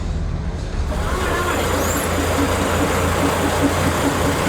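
An engine or motor running steadily with a low hum and a regular pulse about three times a second; the noise gets louder about a second in.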